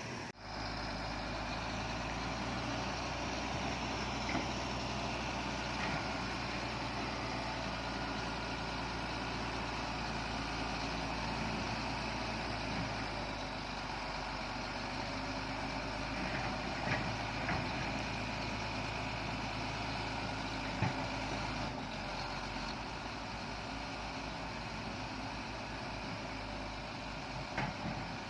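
Heavy diesel engine of earthmoving machinery running steadily, with a few short sharp knocks about halfway through and near the end.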